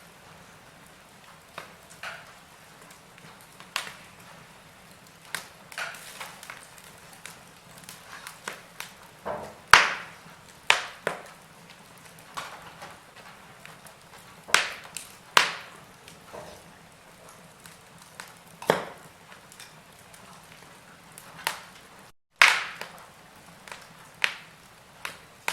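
Wood fire crackling in a fireplace: irregular sharp pops and snaps over a soft hiss, a few louder pops clustered around the middle. The sound cuts out for a split second about three-quarters of the way through.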